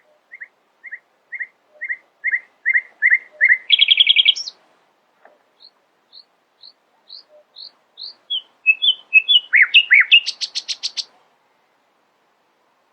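Nightingale singing one long song phrase: a run of repeated whistled notes that grow louder and quicker, a fast trill, a string of higher single notes, then a mix of varied notes ending in a rapid rattling trill.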